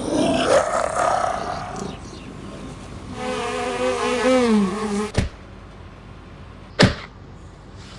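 An animal's drawn-out, wavering call of about two seconds, starting about three seconds in, after a loud noisy scuffle at the start. A few sharp clicks follow near the end.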